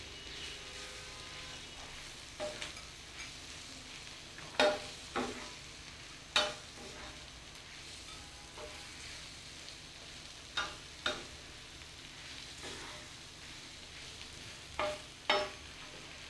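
Cubed boiled liver frying in mustard oil on a flat tawa griddle: a steady sizzle, with the spatula scraping and knocking against the griddle every few seconds as the food is stirred.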